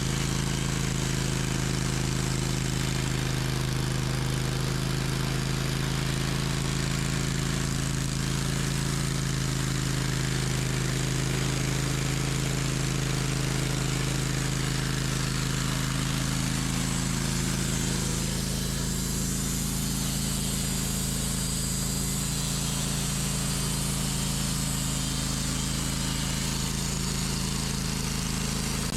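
Sawmill engine running steadily at a constant speed, dropping slightly in level about two-thirds of the way through.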